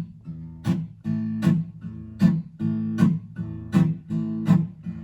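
Acoustic guitar strumming chords in a steady rhythm, about one strum every three-quarters of a second: the instrumental introduction to a sung prayer.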